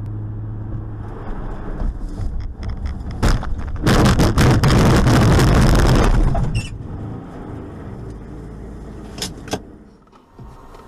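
Car engine running, then a sharp knock about three seconds in and a loud, harsh crashing noise lasting a couple of seconds, typical of a collision recorded from inside a car. A few sharp knocks follow near the end.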